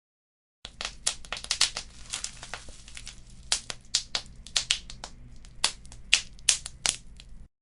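Wood fire crackling, with irregular sharp snaps and pops over a low steady hiss. The sound starts after a short gap of dead silence and cuts off abruptly just before the end.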